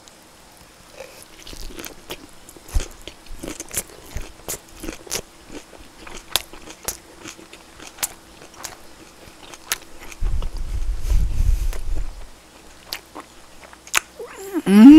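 A person chewing a mouthful of grilled duck wrapped in aged kimchi close to the microphone: irregular wet clicks, smacks and crunches. A low rumble runs for about two seconds near the end.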